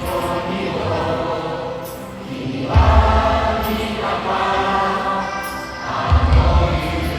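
Stadium crowd of football supporters singing a chant together, with a deep booming swelling every three to four seconds.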